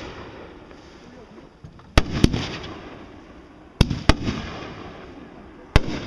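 Fireworks going off: five sharp bangs, mostly in pairs about a quarter second apart, a new pair every couple of seconds, each bang trailing off over about a second.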